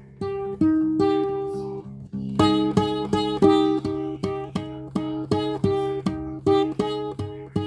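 Acoustic guitar music of plucked notes over a held bass note. A few slow notes ring out, then from about two and a half seconds in an even picked pattern runs at about three notes a second.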